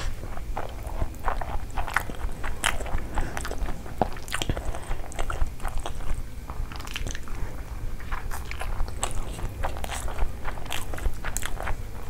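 Close-miked eating: a person chewing and biting mouthfuls of rice and curry eaten by hand, with many irregular sharp mouth clicks and crunches.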